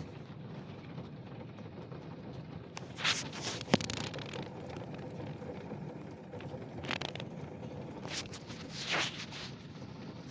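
Steady patter of rain in a summer thunderstorm. A few brief louder swishes come through it, and a sharp click sounds about four seconds in.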